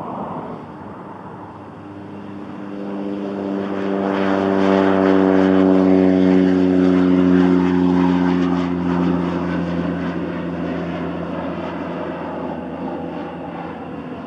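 Propeller airplane passing by: its engine and propeller drone builds to a peak a few seconds in, then fades away, the pitch dropping slightly as it goes past.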